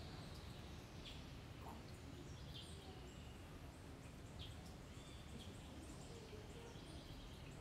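Faint, scattered bird chirps and short whistled calls over a low, steady background hum.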